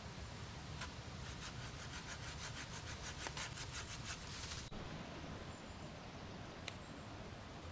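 Rapid rhythmic sawing strokes, about six a second, that stop abruptly a little under five seconds in.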